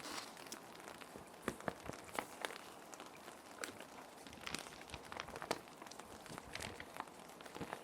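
Plastic sheet protectors rustling and crinkling as sheets are slid in and handled: irregular soft crackles and clicks over a steady hiss of rain.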